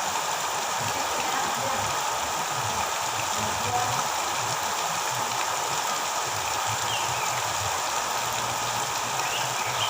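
Steady rushing water noise, the kind of continuous water sound played as bird-therapy audio for a magpie-robin, with a couple of faint chirps near the end.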